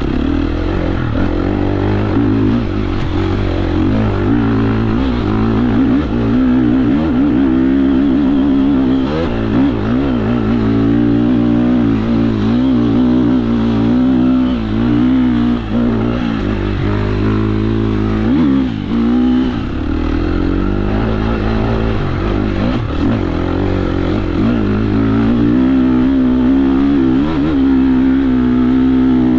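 KTM 350 SX-F four-stroke single-cylinder dirt bike engine being ridden on a trail, its pitch rising and falling constantly with throttle and gear changes, with a couple of brief drops midway.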